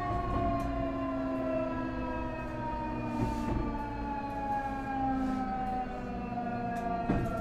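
Nankai 8300 series 2-level IGBT VVVF inverter and its totally enclosed induction traction motors whining in several tones. The tones fall steadily in pitch as the train slows under electric braking, over running rumble. A sharp knock comes near the end.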